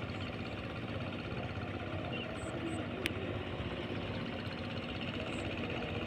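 Diesel-electric locomotive (Indonesian CC 201 class, a GE U18C) engine running steadily with a dense, even rumble, and a single sharp click about three seconds in.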